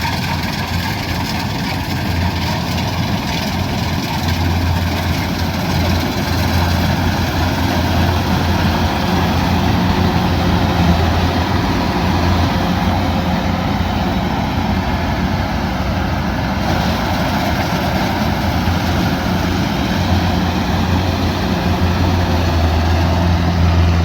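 Kubota DC108X rice combine harvester's diesel engine running steadily: a low continuous drone under a dense mechanical din.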